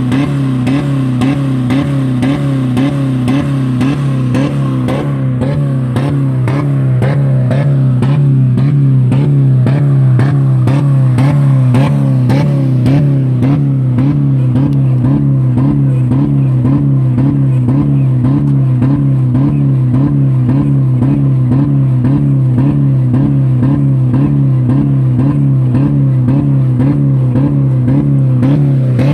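2000 Dodge Neon's 2.0-litre four-cylinder engine held flat out at about 4000 rpm with the pedal stuck to the floor, running with no oil or coolant left in it. A steady, loud engine note with a regular wavering pulse and evenly spaced ticking, growing a little louder about seven seconds in.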